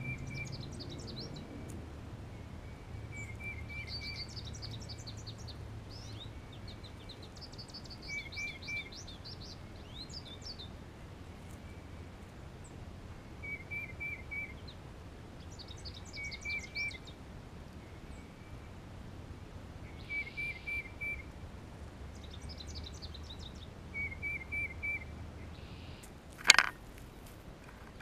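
Wild birds singing: a short phrase of three or four quick notes repeats every few seconds, with higher rapid trills between the phrases. A single sharp knock near the end is the loudest sound.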